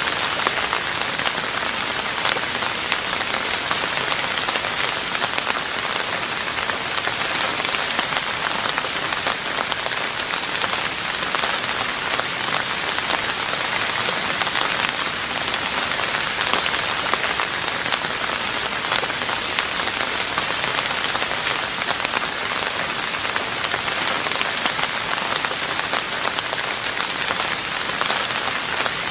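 Steady rain falling on a roof: a dense, even hiss of countless small drop impacts that stays level throughout.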